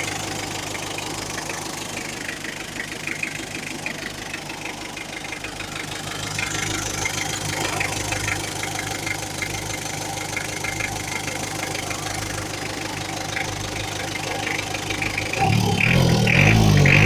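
Mitsubishi 4M40 four-cylinder diesel engine idling steadily with a regular clatter; near the end it revs up and gets louder.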